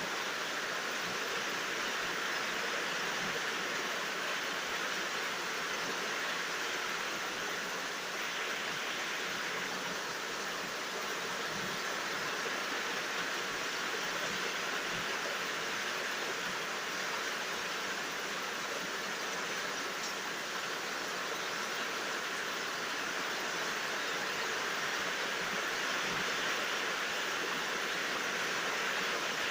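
Steady rain falling, a constant even hiss without thunder.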